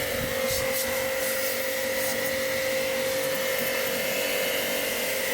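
A small electric motor running steadily, with a constant whine that holds one pitch.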